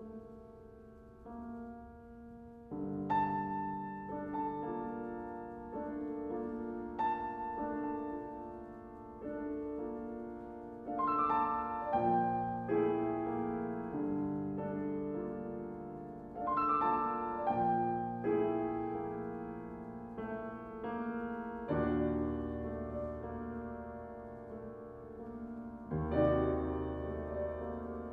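Solo piano playing a slow piece: chords struck one after another and left to ring, with deep bass notes joining in the second half.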